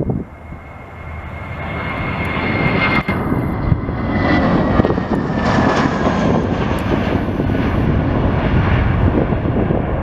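Airliner's jet engines passing the spotting position, loud engine noise building up over the first couple of seconds and holding, with a high whine that drops slightly in pitch as the aircraft goes by.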